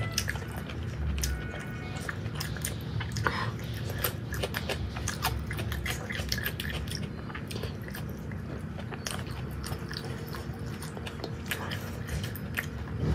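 Close-miked chewing of a mouthful of rice and curry eaten by hand, with many short wet mouth clicks throughout.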